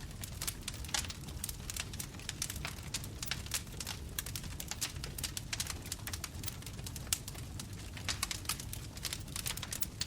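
Bonfire crackling: wood popping and snapping in quick, irregular clicks over a steady low rumble of the flames.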